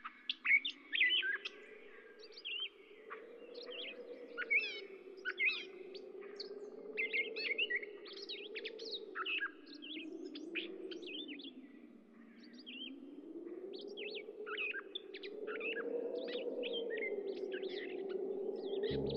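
Birdsong: many short chirps and trills, over a low hum that slowly rises and falls in pitch.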